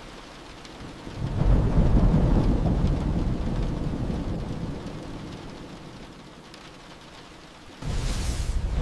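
Thunderstorm: steady rain falling. About a second in, a roll of thunder swells and then slowly dies away over several seconds. Near the end a sudden, sharp thunderclap cracks in close.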